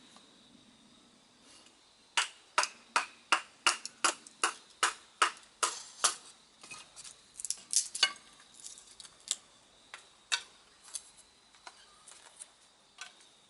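A rapid, even series of sharp clicks, about two or three a second for some six seconds, then slower, scattered clicks.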